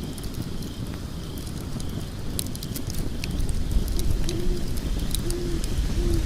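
Wood fire in a fireplace crackling, with sharp pops over a low rumble. Near the end three short, low hooting notes sound.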